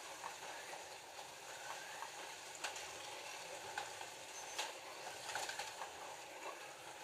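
Scalextric slot cars running on a plastic track: a steady whirring hiss from their small electric motors and rolling wheels, with scattered sharp clicks.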